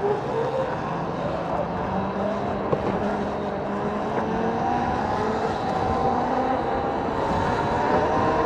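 Electric bike motor whining while riding, its pitch slowly rising as it speeds up, over a steady rushing noise. There is a single sharp click about three seconds in.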